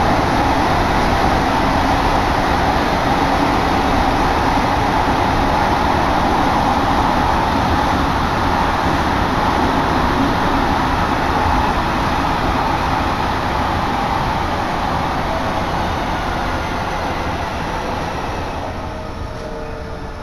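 Odakyu Tama Line electric commuter train running at speed, heard from inside the car as a loud, steady rumble of wheels on rails. The noise eases off over the last few seconds, with a faint falling motor whine as the train slows.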